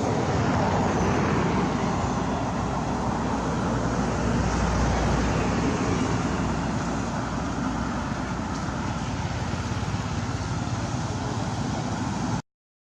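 Steady outdoor background noise with a strong low rumble; it cuts out abruptly near the end.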